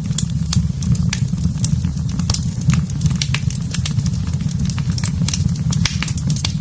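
Wood fire burning in a fireplace: a steady low rumble under frequent, irregular sharp crackles and pops.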